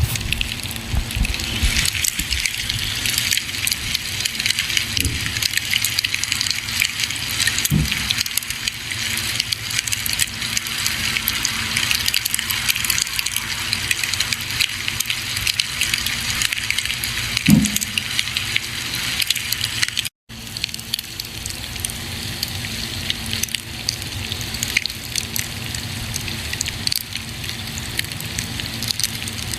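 Campfire burning: a dense stream of small crackles over a steady hiss, with a few louder pops, the strongest about 17 seconds in. The sound cuts out for an instant about 20 seconds in.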